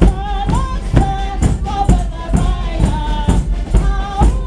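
Portuguese bombo bass drums and snare drums playing a steady marching beat, about two strokes a second, with a melody of held notes carried over the top.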